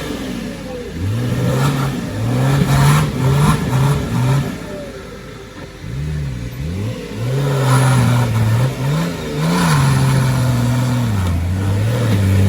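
Off-road 4x4's engine revving in repeated surges, its pitch rising and falling, then holding a steadier note with brief dips in the second half.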